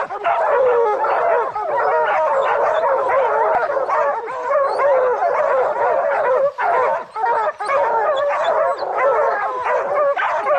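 A pack of bear hounds baying together without a break, many voices overlapping: the sound of hounds holding a treed bear.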